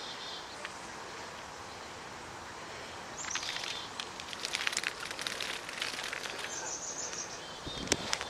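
Short high bird chirps a few times from about three seconds in, over a steady outdoor background and scattered rustling clicks.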